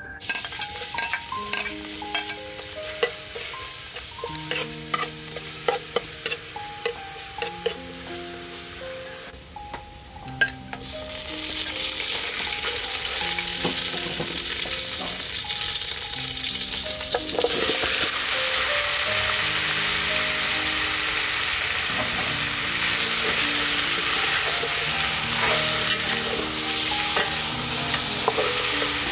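Garlic and lime leaves frying in hot oil in an aluminium pot. The sizzle starts about a third of the way in and grows louder a little past halfway. By the end chicken pieces are frying and being stirred with a metal ladle, over a soft background melody.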